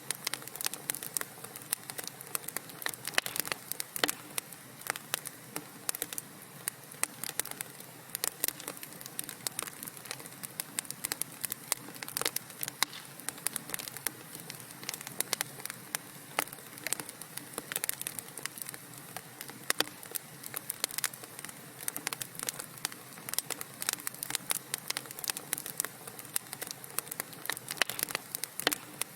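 Wood fire crackling in a fireplace: many sharp, irregular pops and snaps over a steady soft hiss.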